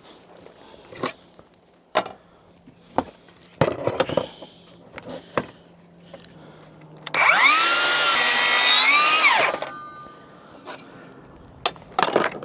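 A power saw runs for about two seconds: its pitch rises as it spins up, holds, and drops as it stops. Before it come scattered clicks and knocks of lumber and tools being handled.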